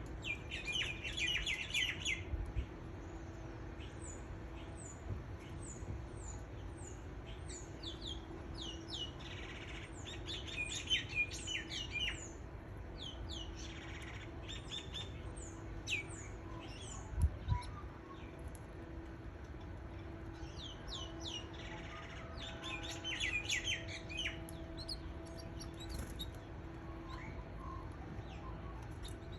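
Canaries chirping: clusters of short, quick, high chirps that sweep downward, coming in several bursts with gaps between. A low knock sounds about two-thirds of the way through.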